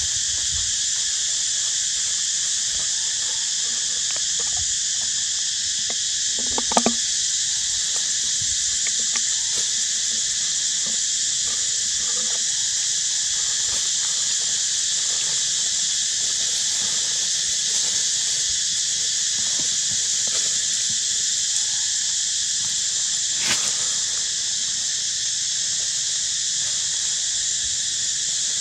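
Steady, high-pitched insect chorus droning without a break, with a short knock about seven seconds in and a sharp click later on.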